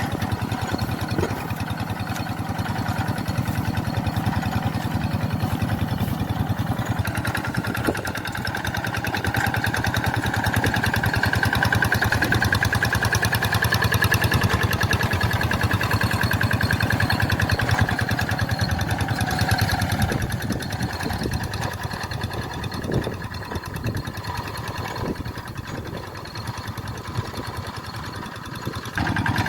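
Tractor engine running steadily with a fast, even firing beat, growing louder through the middle and easing off about two-thirds of the way through.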